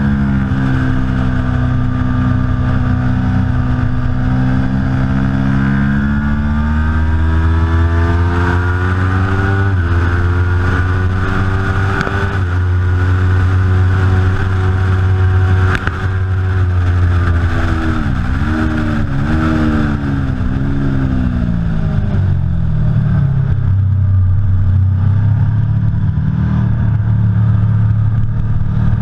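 Aprilia Tuono V4 Factory's V4 engine running hard, its pitch slowly climbing and falling with throttle and gear changes, with a quick run of three dips and rises about two-thirds of the way through.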